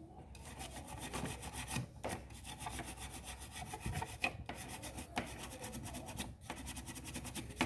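Quick back-and-forth scrubbing on a printed circuit board, cleaning freshly soldered joints with isopropyl alcohol: about five or six scratchy strokes a second, in several runs with short pauses between them.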